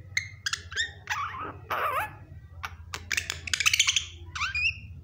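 Pet myna calling: a quick run of sharp clicks, short whistles and falling whistled notes, with a loud harsh squawk about three and a half seconds in.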